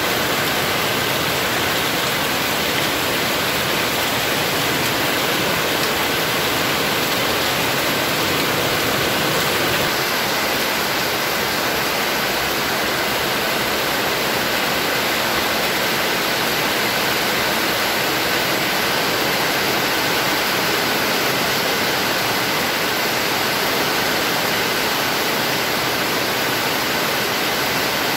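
Heavy rain pouring steadily onto a paved yard, potted plants and shade netting: a loud, even hiss with no let-up.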